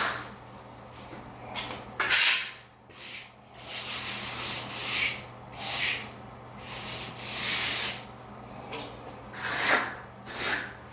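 A float or trowel scraping over a bed of dry-pack sand-cement shower pan mud in a series of irregular strokes, roughly one a second, as the mortar is packed and smoothed.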